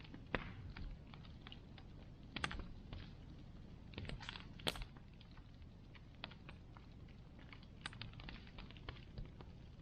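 Bonfire crackling: irregular sharp pops and snaps of burning wood at uneven intervals over a faint steady low rumble, the loudest pop about halfway through.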